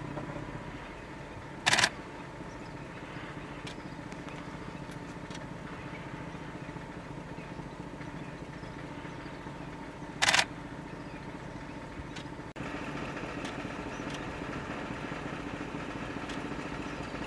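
A vehicle's engine idling steadily, broken twice by a short loud burst of noise about eight seconds apart. About twelve and a half seconds in, the hum cuts abruptly to a slightly louder one.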